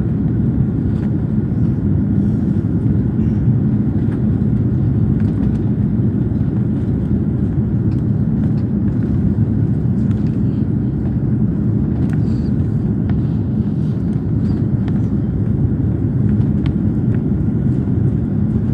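Steady low rumble of an Airbus A340 airliner's jet engines, holding at one level throughout, with a few faint ticks.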